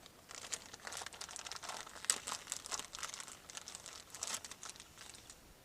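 Irregular crinkling and rustling as the new replacement hydraulic hose is handled: a run of short, uneven crackles that fades out near the end.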